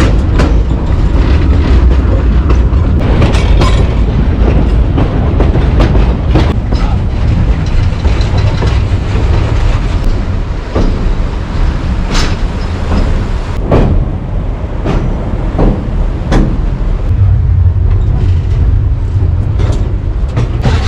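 A passenger train coach rolling along the track with a steady low rumble. Now and then the wheels knock and clack over the rails, several times in the second half.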